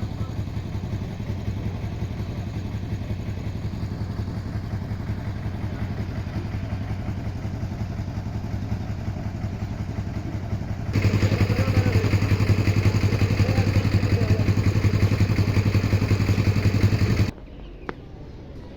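An engine running steadily with a low, fast-pulsing hum. It gets louder about two-thirds of the way in, then cuts off suddenly near the end.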